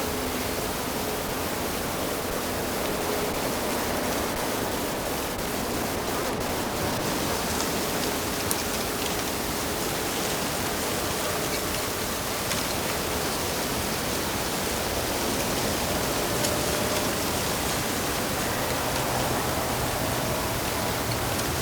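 Steady rush of flowing water in a stream, an even full-range noise without breaks.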